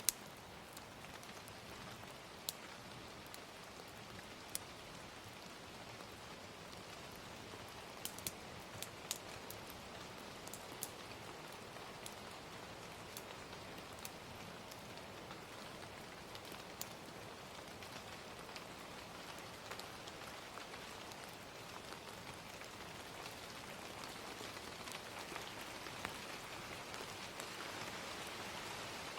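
Steady gentle rain, with sharp pops from a crackling fire scattered through it. The rain grows a little louder near the end.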